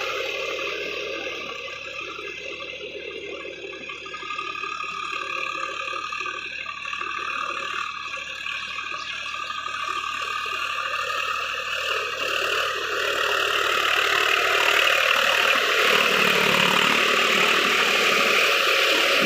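Swaraj 744 FE 4WD tractor's diesel engine running steadily, growing louder about two-thirds of the way through.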